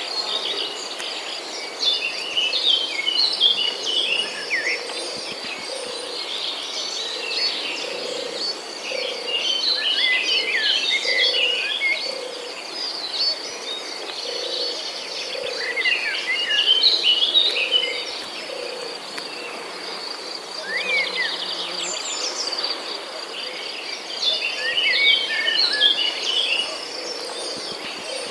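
Songbirds chirping in recurring bursts of quick, short notes over a steady high insect trill, with a lower note repeating about once a second.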